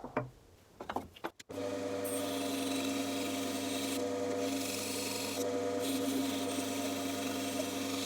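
Bandsaw running with a steady motor hum while its blade cuts through wood, with a hiss that rises and falls as the cut goes on. It starts suddenly about a second and a half in, after a few brief knocks.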